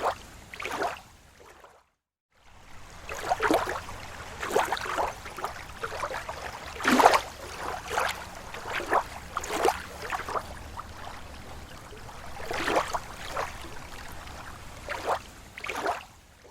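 Lake water lapping against the shore in small, irregular splashes and gurgles, with a brief gap of silence about two seconds in.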